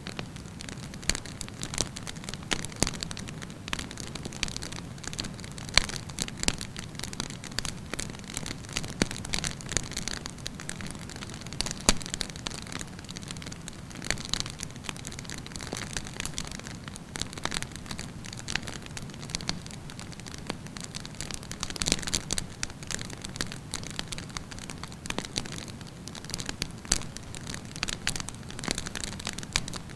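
Wood campfire burning, with a steady hiss and irregular sharp crackles and pops from the burning logs throughout.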